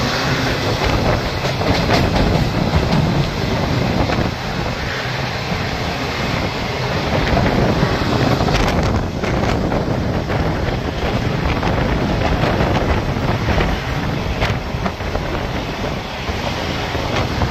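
Passenger train running along the track at speed: a steady rush of wheels on rail, with a few sharper clicks over rail joints. Wind buffets the microphone at the open coach door.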